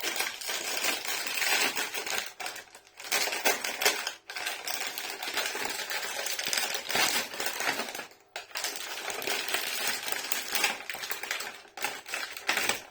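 Plastic cookie packaging crinkling and crackling as it is opened and handled, with a few brief pauses.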